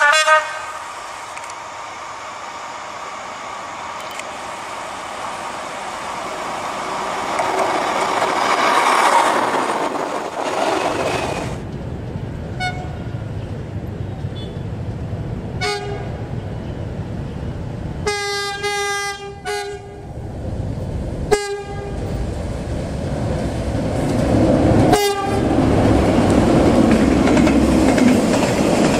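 Diesel locomotives and a freight train. A short horn blast opens as a locomotive approaches, and its noise builds for about ten seconds. Then a second locomotive sounds its horn in several short blasts, a rapid pulsing run of them about two-thirds of the way in, over the steady rumble of the train. Near the end the container wagons rumble past louder.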